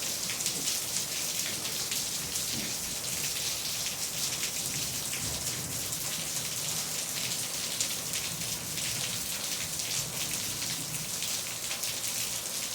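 Heavy rain coming down steadily in a downpour, an even hiss of rain on surfaces.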